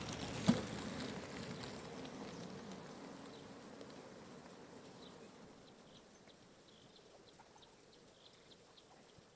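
Quiet outdoor ambience with faint, scattered short high chirps of insects. A soft rushing noise fades away over the first few seconds, with a single click about half a second in.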